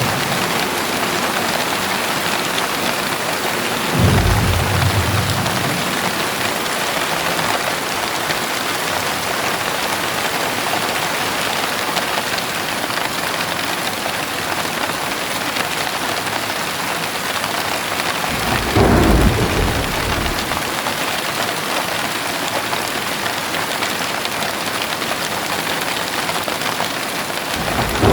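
Heavy rain pouring down steadily, with a low roll of thunder a few seconds in and another about two-thirds of the way through.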